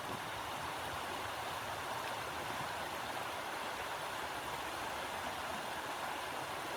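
Steady, even rushing of blizzard wind, with no gusts rising or falling.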